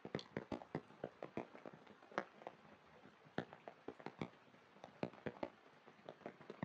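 Rain: scattered drops landing as irregular light taps, several a second, over a faint hiss.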